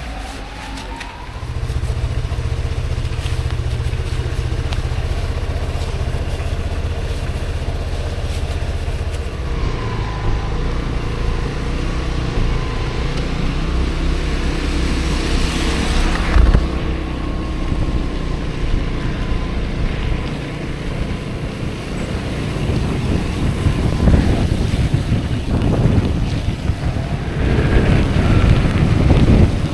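Piaggio MP3 300 three-wheeled scooter's engine running under way, with wind and road noise. The engine note steps up about a second and a half in, then holds steady.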